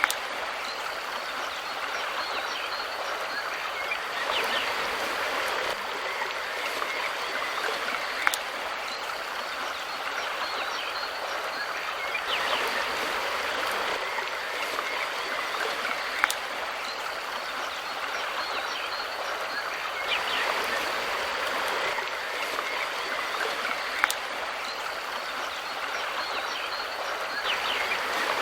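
Mountain river rushing steadily, its flow swelling and easing every few seconds, with a sharp click three times, about eight seconds apart.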